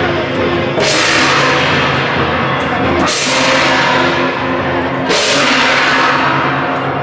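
A massed troupe of shaojiao, the long brass horns that lead Taiwanese temple processions, blowing held low notes, with a gong or cymbal crash about every two seconds.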